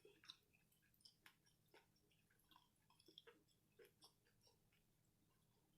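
Faint close-up chewing of a fried, cornmeal-and-panko-breaded scallop: irregular small crunches and mouth clicks, about two a second, thinning out near the end.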